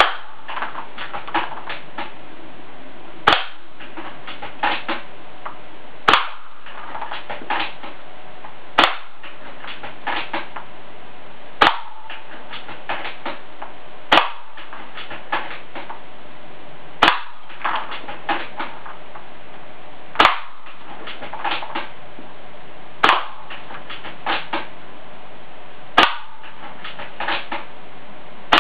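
WELL MB05D bolt-action spring airsoft sniper rifle firing BBs one at a time, a sharp crack about every three seconds, eleven in all. Between shots come several smaller clicks as the bolt is worked to cock it for the next shot.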